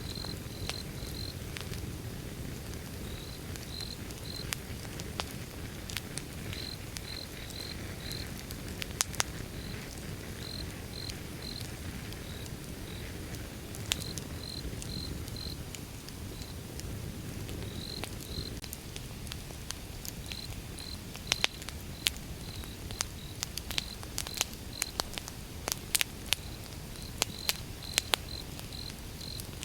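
Wood fire burning: a steady low rush with sharp crackles and pops, coming more often in the last third. Short high chirps repeat throughout in small groups.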